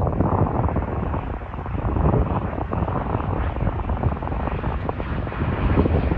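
Jet airliner engines: a steady, loud low rumble with a rough, crackling texture.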